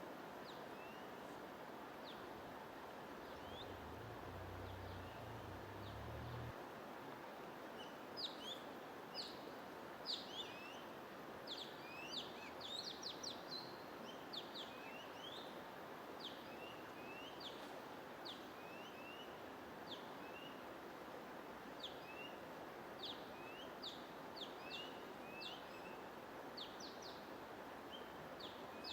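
Many small birds chirping in short, quick notes over a steady hiss of white noise. The chirps are sparse at first and grow busier after a few seconds.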